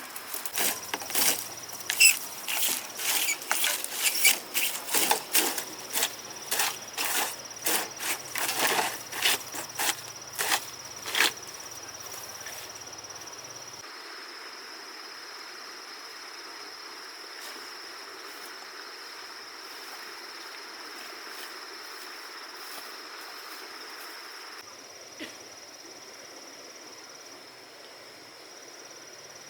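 About twenty sharp strikes, roughly two a second, for the first eleven seconds or so, then they stop. A steady high insect trill carries on underneath throughout.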